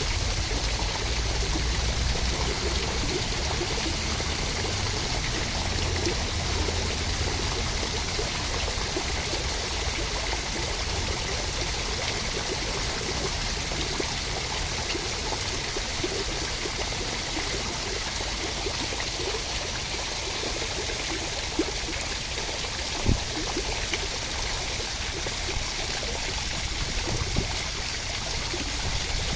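Steady, even rush of water in a continuous relaxation soundscape, with a few faint ticks in the second half.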